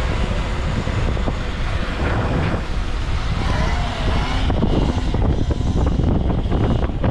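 Wind buffeting the microphone of a camera carried on a moving e-bike: a loud, steady rumble with road noise.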